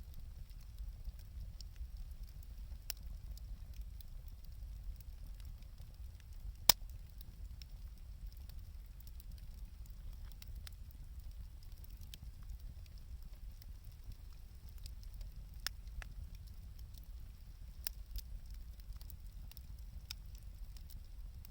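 Wood campfire burning, crackling with scattered sharp pops over a low steady rumble, one pop much louder than the rest about a third of the way in.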